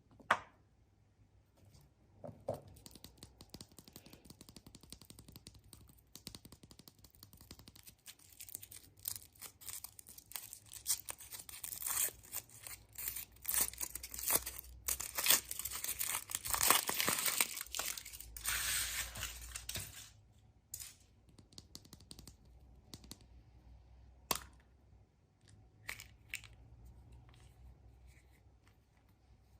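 A crinkly wrapper being torn open and unwrapped by hand: dense crackling and rustling that builds up about a quarter of the way in and stops suddenly about two-thirds through. There is a sharp click near the start and another later.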